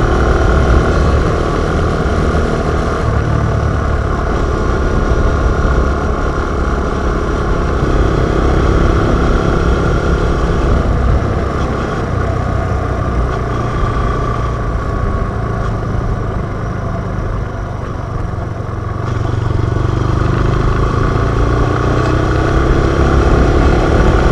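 Yamaha TW 125's single-cylinder four-stroke engine running under way through an Akrapovic exhaust, its note rising and falling with the throttle. It eases off a little past the middle and climbs again near the end.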